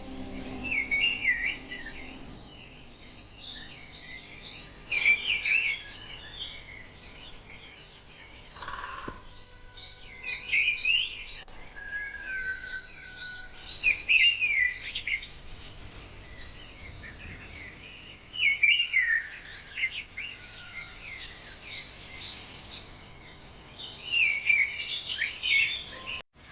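Small birds chirping and singing in short, quick phrases that come every few seconds, over a faint steady hiss.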